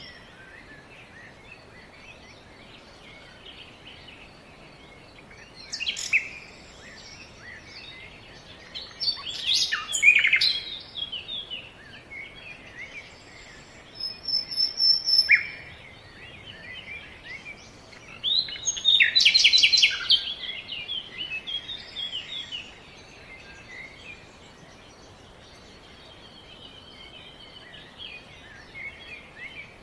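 Several wild birds calling and chirping in bursts over a steady background hiss, with the busiest stretches around six, ten, fifteen and nineteen seconds in, including a fast trill of repeated notes.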